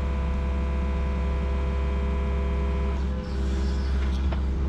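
Yanmar SV40 mini excavator running under work, a steady diesel drone with a whine on top. About three seconds in, the whine shifts and partly drops away.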